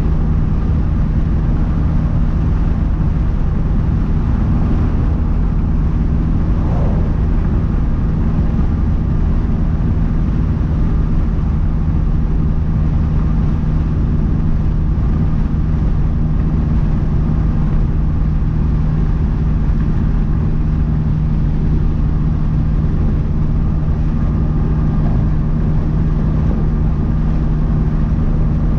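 2012 Mazdaspeed 3's turbocharged 2.3-litre four-cylinder, fitted with a big turbo, running at a steady engine speed while cruising: a constant low drone that holds one pitch, over road noise.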